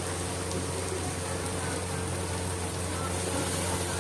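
Chicken masala sizzling steadily in an aluminium pot, with a constant low hum underneath.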